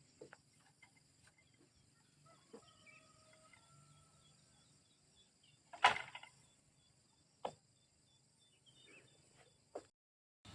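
A few scattered sharp knocks or taps, about five in all, the loudest about six seconds in, over a faint steady high hiss of outdoor background.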